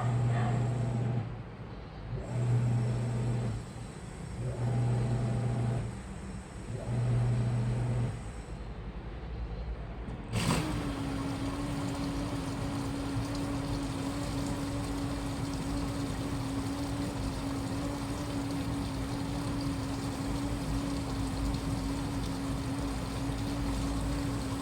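Washing machine running: for the first ten seconds its drum motor hums in pulses about every two seconds, as the drum turns one way and then the other. About ten seconds in there is a click, and a steady machine hum with a rushing hiss takes over and holds even.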